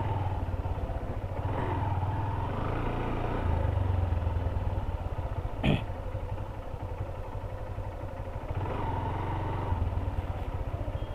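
Honda CB Hornet 160R single-cylinder motorcycle engine running steadily while riding, a little louder around four seconds in. A single sharp click or knock about five and a half seconds in.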